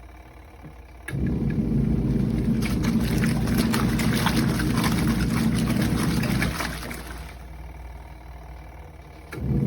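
Costway twin-tub portable washing machine's wash tub agitating, its motor humming and water churning. It starts about a second in and runs for about five seconds, pauses for about three, and starts up again near the end, the on-and-off rhythm of its wash cycle.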